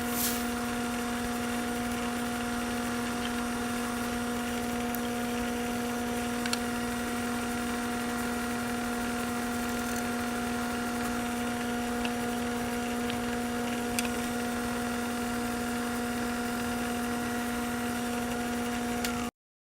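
Milling machine running with a steady motor hum, a few faint ticks over it, while a hole is center drilled. The sound cuts in and cuts off abruptly.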